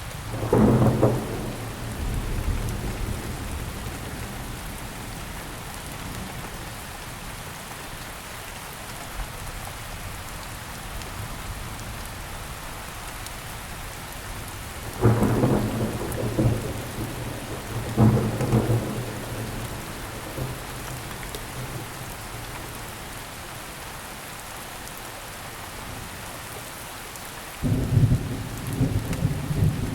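Steady rain falling, with four loud low thunder rumbles: about a second in, around halfway, a few seconds after that, and near the end.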